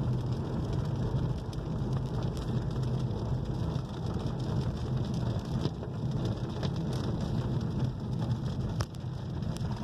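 Heavy rain drumming on a moving car's roof and windscreen, heard inside the cabin as a steady hiss with scattered sharp drop ticks over a steady low rumble of engine and tyres on the wet road.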